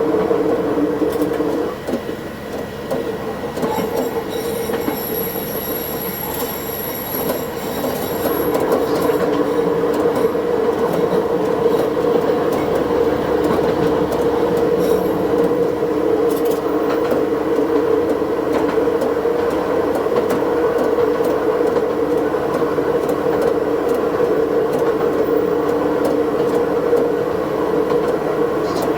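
Diesel railcar running along the track, played back at double speed: a steady engine and wheel drone, with a thin high wheel squeal for a few seconds starting about four seconds in.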